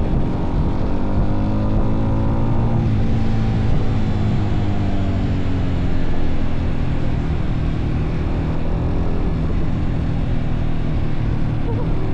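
Motorcycle engines running steadily while riding, over a steady rush of noise. One engine's pitch eases down over the first three seconds or so.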